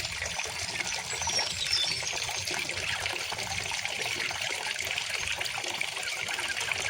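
River water flowing and trickling steadily, with a few faint, short, high bird notes in the first two seconds.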